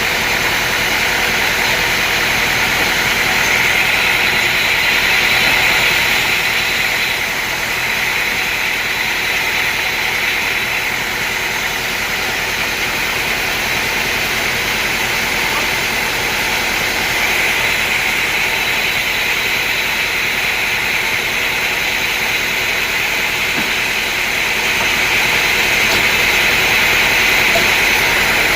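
Engine-driven sawmill running steadily: a continuous loud machine noise with a high hiss that swells and eases a few times.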